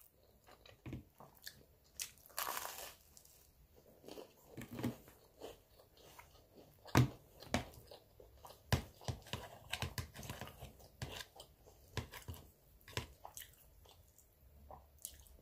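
A person chewing a mouthful of spaghetti with meat sauce close to the microphone: irregular wet smacks and clicks of the mouth.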